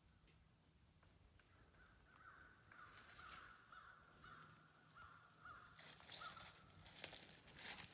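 A bird gives a rapid series of about ten harsh calls, roughly two or three a second. Near the end the calls give way to crunching and rustling, like dry leaves under foot.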